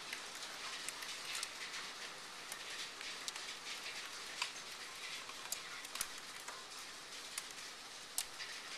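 Hail falling: a steady dense patter with irregular sharp clicks of individual hailstones striking.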